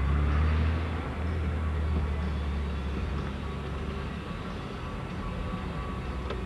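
Steady low engine and road rumble of a moving road vehicle, heard from inside, a little stronger in the first second and then even.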